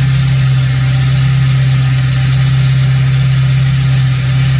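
Ford 6.0 Powerstroke V8 turbo-diesel idling steadily and loudly through a 4-inch straight-pipe exhaust. It is warming up after a cold start in about 20 below and is still at low idle, before the high idle kicks in.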